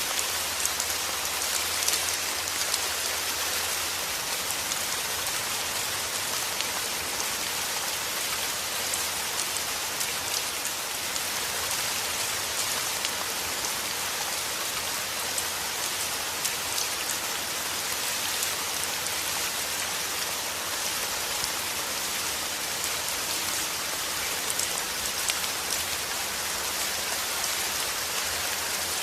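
Rain falling steadily: a dense, even hiss of countless drops striking a surface.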